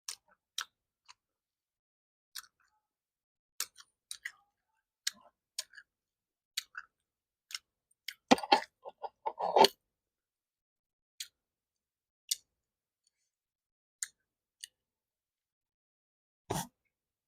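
Close-up eating sounds: scattered small mouth clicks and crisp bites, with a loud run of crunchy chewing about eight seconds in and one more crunch near the end.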